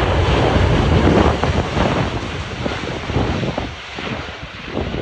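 Strong gusty wind buffeting the microphone over the broad rushing noise of a jet airliner's engines, loudest for the first two seconds and then easing.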